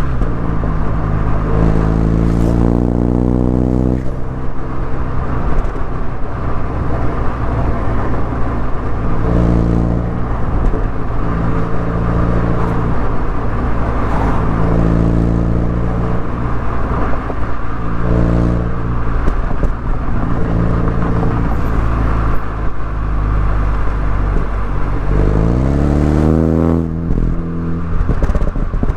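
Mini Cooper S engine and exhaust on the move, the pitch holding steady for stretches and shifting up and down with throttle and gear changes. Near the end it revs up in a quick rising sweep.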